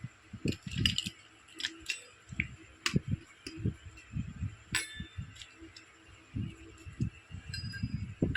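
Small plastic toy kitchen pieces being handled: irregular light taps, soft knocks and sharp clicks.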